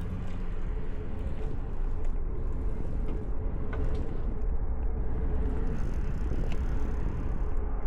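Steady low rumble of wind and road noise heard from a moving bicycle on city streets, with a faint steady hum and a couple of light ticks.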